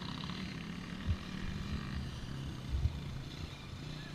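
Motocross bike engines running on the track, a steady drone that wavers in pitch as the riders work the throttle. Two low thumps, about a second in and near three seconds.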